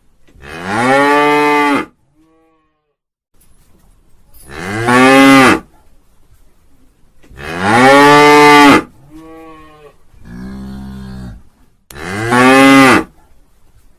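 Cattle mooing: four loud, long moos, each rising in pitch and then holding, a few seconds apart, with two quieter, lower moos between the third and fourth.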